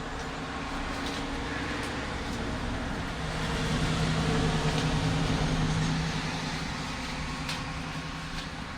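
A steady mechanical hum with a low held tone, which grows louder for a couple of seconds in the middle and then eases back, with a few faint clicks.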